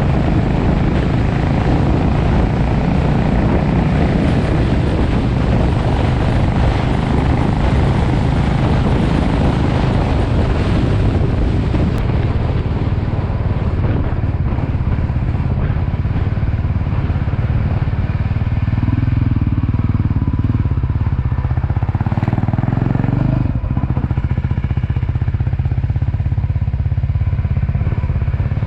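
A motorcycle engine running steadily, with a change in its note about two-thirds of the way through.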